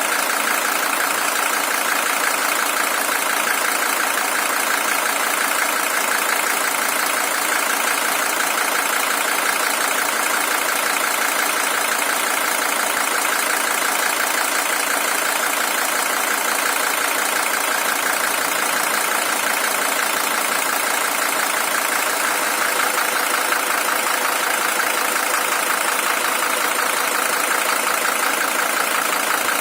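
Mercedes-Benz OM617 five-cylinder diesel engine idling steadily in a W123 300TD, an original engine with 620,000 km on it.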